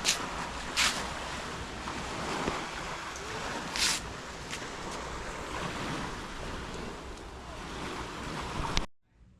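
Steady outdoor rushing noise of waves and wind, with a few brief hissing swells, cutting off abruptly near the end.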